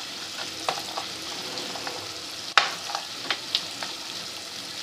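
Onion, garlic and tomato masala sizzling steadily as it fries, with a few sharp clicks over the hiss, the loudest about two and a half seconds in.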